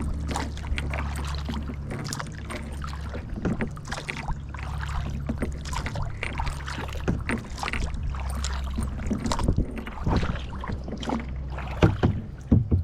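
Kayak being paddled: irregular paddle splashes and knocks against the hull over a steady low rumble. The sharpest knocks come near the end.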